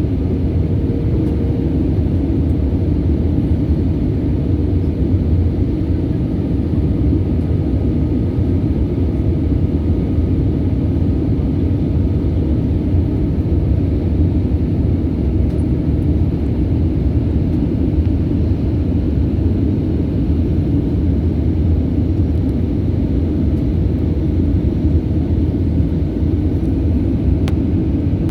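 Passenger airliner's steady low rumble of engines and airflow.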